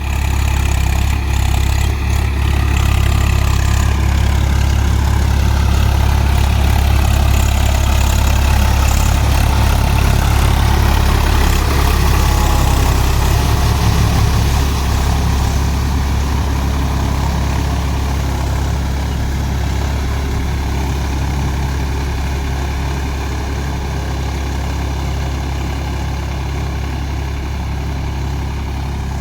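Swaraj 855 FE tractor's three-cylinder diesel engine running steadily with a deep low drone, growing slightly quieter in the second half.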